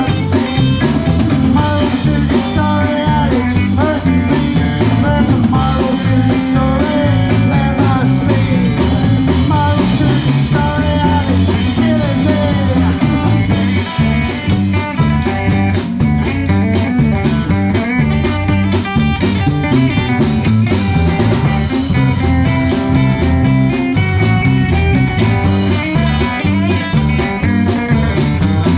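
Live rock band playing a song loudly: electric guitar lines over bass guitar and drum kit.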